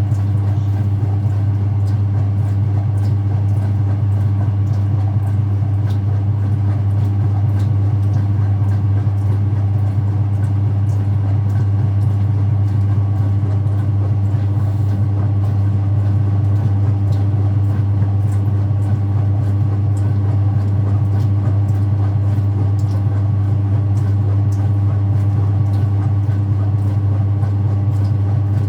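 Speed Queen top-loading washing machine in its spin, the drum turning at a steady top speed of about 710 RPM. The motor gives an even hum that does not change.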